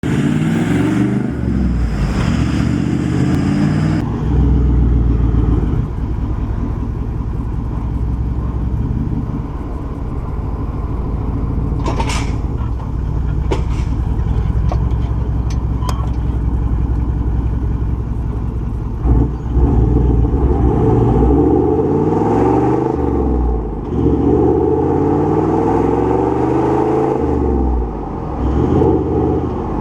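Toyota Landcruiser 78 Series 4.5 L turbo-diesel V8 running through a 3-inch exhaust system. It is revved twice near the start, idles steadily through the middle with a few sharp clicks, then is blipped up and down several times near the end.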